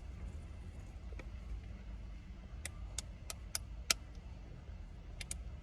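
Steady low rumble inside a parked car's cabin, with a scatter of sharp clicks, about five quick ones between two and a half and four seconds in and two more near the end.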